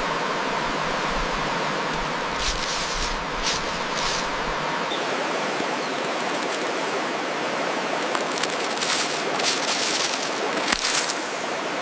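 Steady rushing outdoor noise, like running water, whose character changes about five seconds in, with short high, crackly bursts around three seconds in and again near the end.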